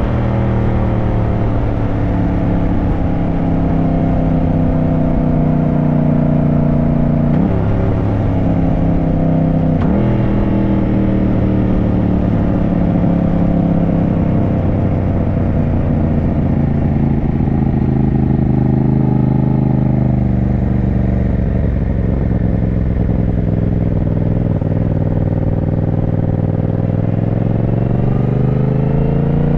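Yamaha motorcycle engine running on the road. Its note falls at first, jumps in pitch twice a little past a quarter of the way in as gears change, holds fairly steady while cruising, then rises near the end as the bike accelerates.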